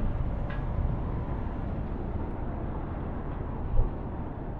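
Steady wind and road noise from a Suzuki GSX400S Katana motorcycle being ridden on a wet road, with a single thump near the end as the bike hits a pothole.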